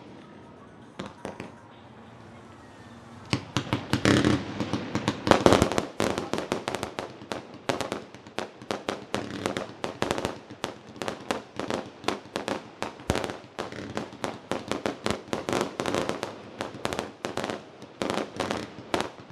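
Aerial fireworks shells bursting: a few separate bangs at first, then from about three seconds in a rapid, continuous barrage of bangs, several a second.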